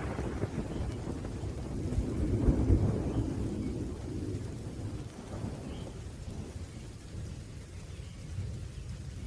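Thunder rumbling over steady rain. The rumble swells about two to three seconds in and then slowly dies away.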